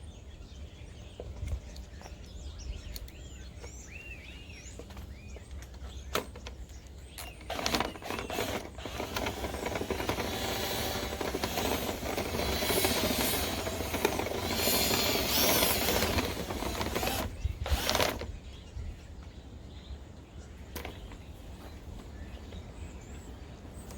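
Dryer vent cleaning kit's rods and brush being worked through the vent duct: a long stretch of mechanical scraping and rattling starting about seven seconds in and stopping about ten seconds later, with a few clicks before it.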